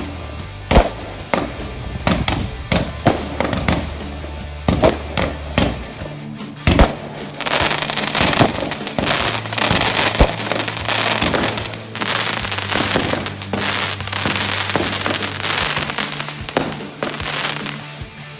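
Fireworks going off in a display: a string of sharp bangs, then from about seven seconds in a dense, continuous run of many small reports mixed with bangs. Music with steady bass notes plays underneath.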